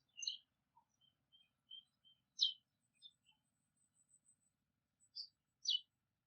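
Small birds chirping: short, sharp calls scattered through, with a run of quick soft notes in the first two seconds and louder single chirps about two and a half seconds in and near the end.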